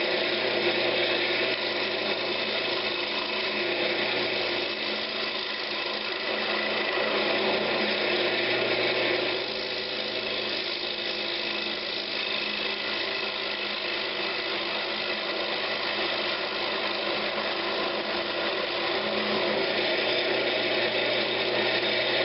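Wood lathe running steadily, with a turning tool cutting the spinning pine as the bottom of a cabinet knob is faced off. The sound drops slightly in level about nine seconds in.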